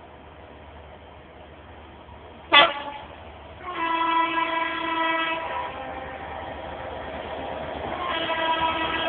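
Class 67 diesel locomotive sounding its horn: a blast of about two seconds, then a second blast near the end. A single sharp crack comes just before the first blast.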